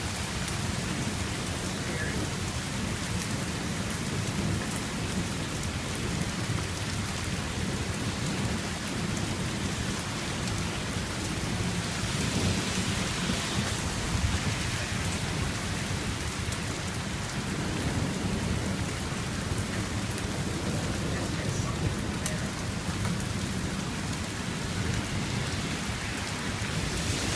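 Heavy rain pouring down steadily, with low thunder rumbling under it during a severe thunderstorm; the rain swells a little about halfway through.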